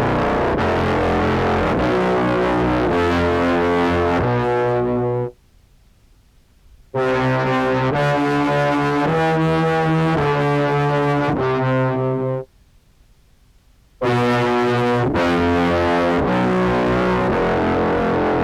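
Contrabass clarinet played through an octave-down pedal that adds tones one and two octaves below, giving a deep, buzzy, brass-like sound. It plays three phrases of held notes that step from pitch to pitch, with short silences between the phrases.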